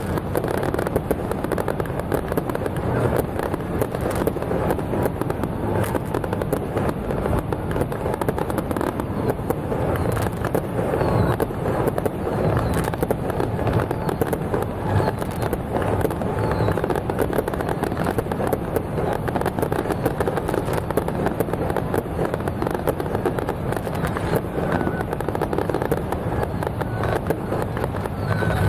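Fireworks going off in a dense, unbroken crackle of rapid pops.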